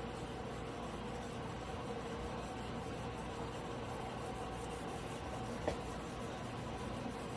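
Steady background hum and hiss, broken once by a sharp click a little over five and a half seconds in.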